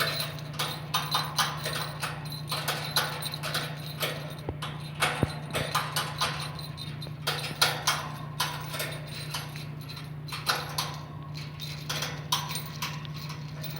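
Irregular light clicks and taps, a few a second, from a budgie pecking and knocking at its toys.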